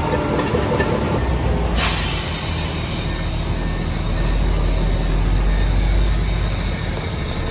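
Heavy diesel engine of earthmoving machinery running steadily. About two seconds in, a sudden steady hiss starts and keeps on over the engine.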